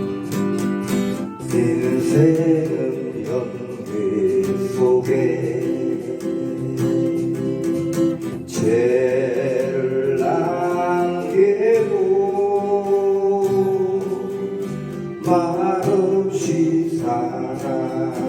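Music: a voice singing a slow melody with held, wavering notes over strummed acoustic guitar.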